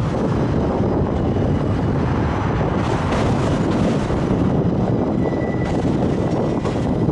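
Enclosed autorack freight cars rolling past, a steady rumble of steel wheels on rail, with a brief faint high tone a little past the middle.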